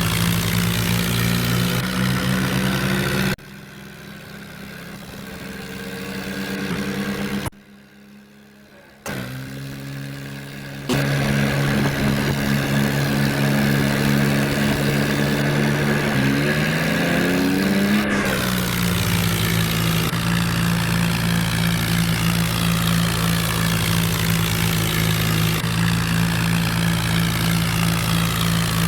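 A 5911 tractor's diesel engine running steadily while hauling a heavily loaded trolley. The sound drops abruptly quieter for several seconds early on and again in the middle. Just past halfway the engine pitch rises as it speeds up, then settles into a steady run.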